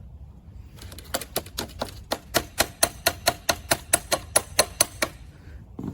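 A quick run of sharp, evenly spaced mechanical clicks, about five a second. It starts about a second in and stops after about four seconds.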